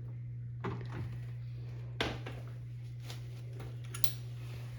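A few light clicks and knocks from handling tools and parts during a washing machine door-seal repair, over a steady low hum.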